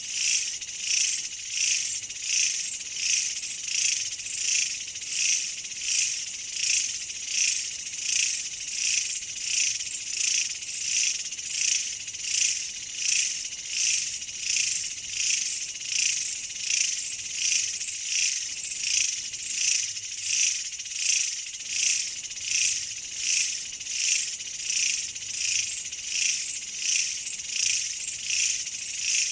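Insect chorus: a high-pitched buzzing trill that swells and fades in a very even rhythm, a little more than once a second.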